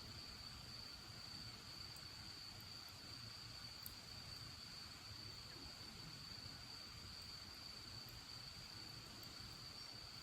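Cricket trilling steadily at one high pitch, faint, with a couple of soft crackles from the bonfire about two and four seconds in.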